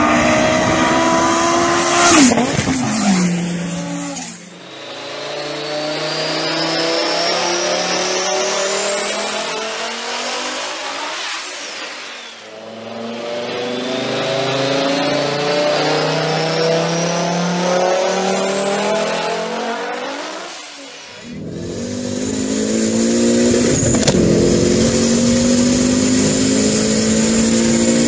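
Fiat car engines heard in three short clips. First a car comes past at speed, its engine note dropping sharply as it goes by about two seconds in. Then an engine revs up under load twice on a dynamometer, each pull lasting about seven seconds with a whine climbing in pitch. From about twenty-one seconds there is a steady engine drone heard from inside a car at close to 200 km/h.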